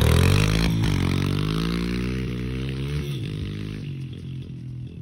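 Pit bike engines revving hard off the start of a race, the pitch climbing and dropping a couple of times with gear changes, fading steadily as the bikes ride away.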